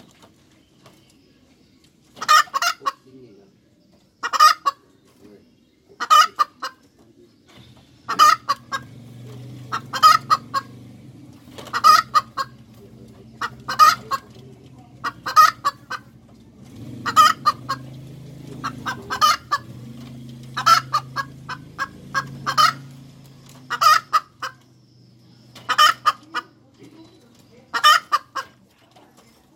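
Domestic hen cackling: a short burst of clucks, repeated about every two seconds.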